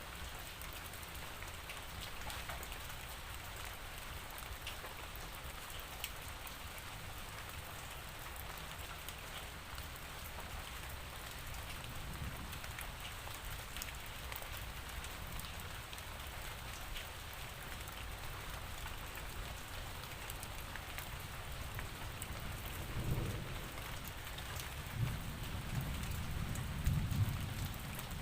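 Steady rain falling, an even hiss with scattered drops ticking. A low rumble of thunder swells in the last few seconds.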